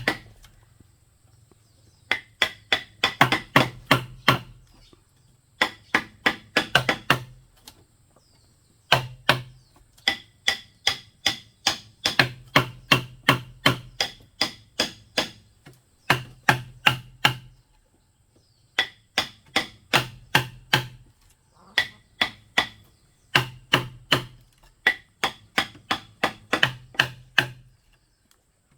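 Sharp blows striking bamboo in quick runs of about four to five strokes a second, each run lasting a second or three, with short pauses between runs.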